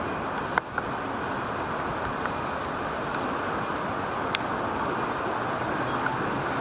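Steady rushing road noise of riding a bicycle through city traffic in the rain: wind on the microphone and tyres on the wet street. A few sharp ticks cut through it, two close together about half a second in and one more about four seconds in.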